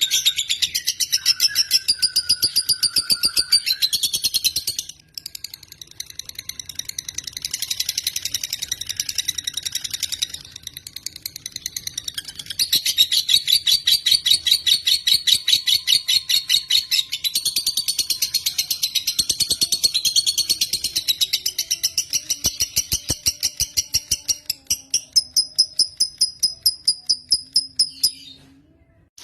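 Lovebird chattering in long, fast trills of high chirps, with a short break about five seconds in and a stop just before the end.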